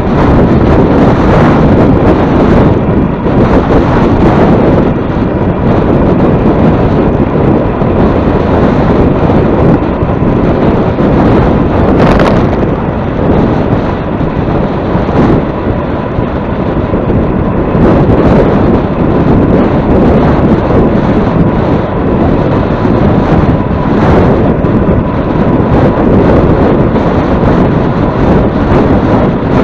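Strong wind buffeting the microphone, a loud steady rush heaviest in the low end, with a few brief sharper gusts.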